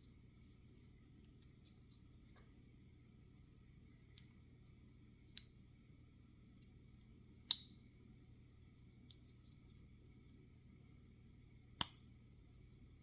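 About half a dozen scattered sharp clicks and taps from IBM Model M keyboard parts being handled and worked on. The loudest comes about halfway through, and another strong one near the end.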